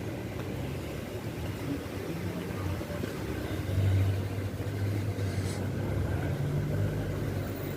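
Street traffic: the engine hum and road noise of passing cars, swelling a little about halfway through.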